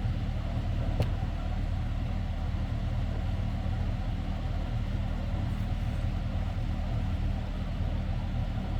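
A vehicle engine idling steadily, with a single sharp click about a second in.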